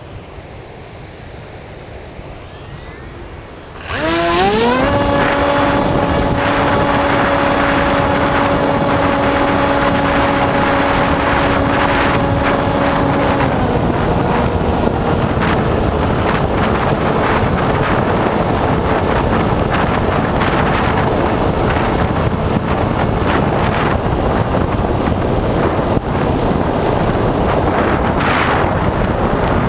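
Electric motor and propeller of an AXN Floater-Jet RC plane spooling up with a rising whine about four seconds in and holding a steady tone, then dropping in pitch about thirteen seconds in as the throttle comes back. Heavy wind buffeting on the onboard microphone runs under it.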